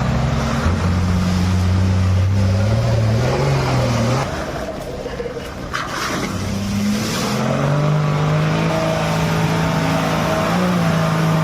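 Heavy truck engine working hard under load. The revs climb a few seconds in, ease off briefly, then rise again and hold steady.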